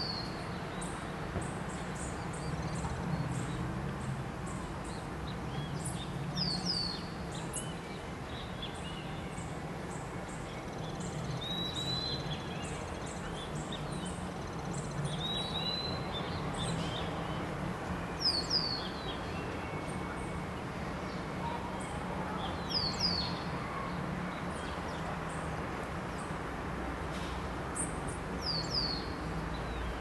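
Wild birds calling: a sharp, high chirp that sweeps downward, mostly given twice in quick succession, repeats every several seconds, with a few other short chirps between. Under them runs a steady low background rumble.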